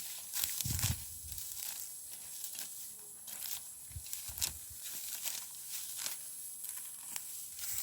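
Dry wheat stalks being handled in the harvest, a run of irregular crackling and tearing sounds with a few dull thuds.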